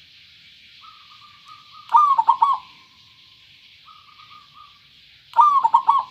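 Zebra dove (perkutut) cooing: twice, a soft rolling run of notes leads into a loud phrase of several quick coos.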